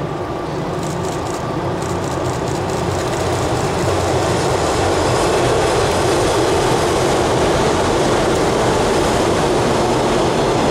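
JR 583 series electric multiple unit running across a steel girder railway bridge. The rumble of wheels on rail and bridge grows louder over the first few seconds as the train draws near, then holds steady as the carriages pass.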